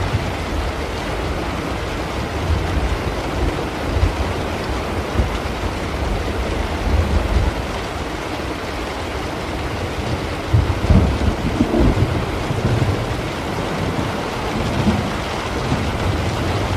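Steady rainfall with low rolling thunder underneath, the rumbling growing heavier about two-thirds of the way through.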